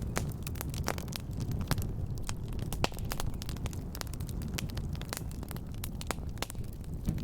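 Fireplace fire crackling: irregular sharp pops and snaps over a low steady noise of the flames.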